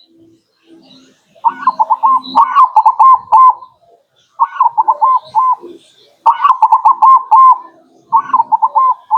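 Zebra dove (perkutut) singing its cooing song: four bouts of quick, clipped notes, each lasting one to two seconds, with short pauses between them.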